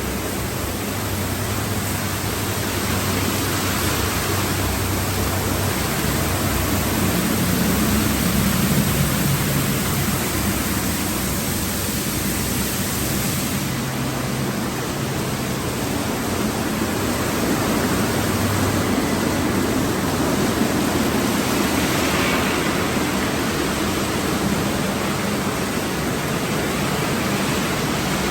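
Automatic conveyor car wash tunnel at work: a steady rush of water spray with the low hum of the wash equipment's motors, which shifts in pitch now and then.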